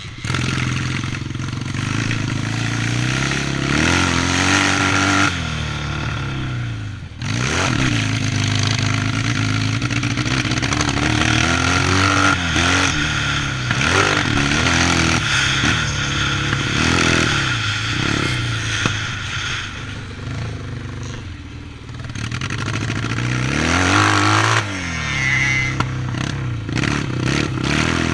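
Yamaha 650 motocross bike engine revving up and backing off over and over as it is ridden around a track, its pitch climbing and falling with each burst of throttle, with some clatter.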